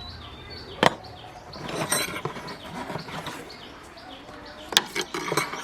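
Two sharp knocks, one about a second in and one near the end, with scraping and handling noise between them, over faint bird chirps.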